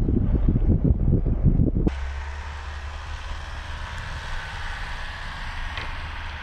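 Wind buffeting the microphone with a loud, fluttering rumble for about two seconds. It cuts off abruptly and gives way to a steadier, quieter low drone of a vehicle running, with a faint hiss.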